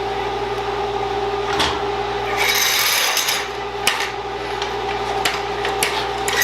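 A steel barbecue pit being lowered onto its new welded legs: a steady machine hum runs under scattered metal knocks and scraping, and the hum cuts off near the end.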